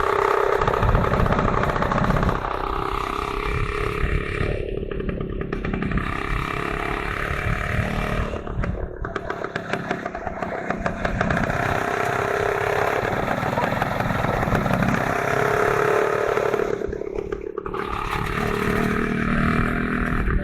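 Motorcycle engine running under way, its pitch rising and falling with the throttle and easing off briefly a few times.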